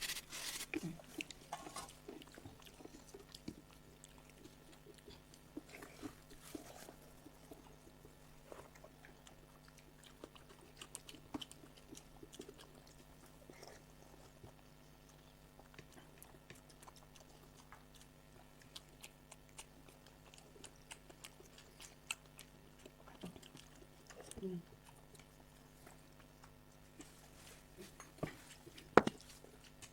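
Faint eating sounds of soaked rice and fried sides eaten by hand: chewing and biting with occasional crunches and small clicks, over a steady low hum. A sharper click sounds near the end.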